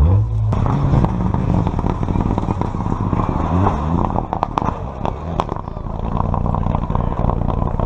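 Rally car engine running, with a rapid crackle of sharp pops and clatter through the middle.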